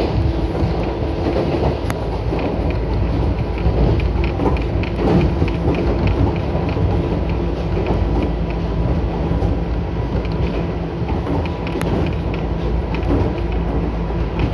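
Inside a two-car local electric train running at speed: a steady low rumble of wheels on rail, with a faint steady whine and light rattling clicks throughout.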